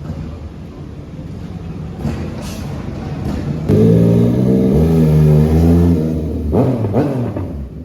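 Sport motorcycle engine growing louder as it approaches, loudest and steady from about four seconds in, then two quick rising revs near the end before it fades.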